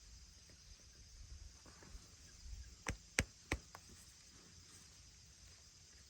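Four sharp knocks in quick succession about three seconds in, over a faint steady background hum.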